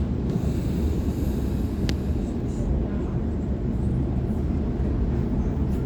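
Steady low rumble of a Waratah electric train running at speed, heard from on board. There is a brief sharp click about two seconds in.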